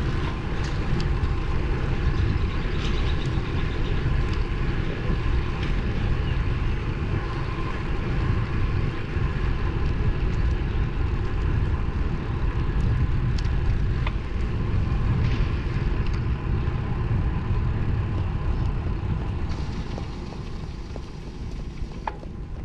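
Steady rush of wind and road noise from a moving road bike, easing a little near the end.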